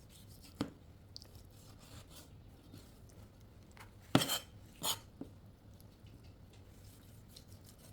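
Chicken wings being cut in half: a faint sharp cut near the start, then two louder sharp cuts a little past the middle, each cutting through the wing.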